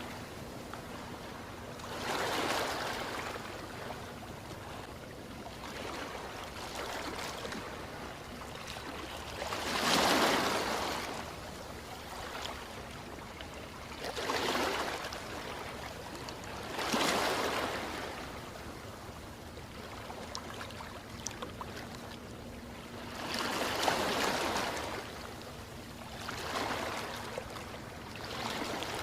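Ocean waves breaking and washing onto the shore, each surge of surf swelling and fading every few seconds, the biggest about a third of the way in, with a steady water hiss between them.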